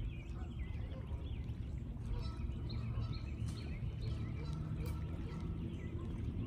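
Small birds chirping over and over over a steady low rumble.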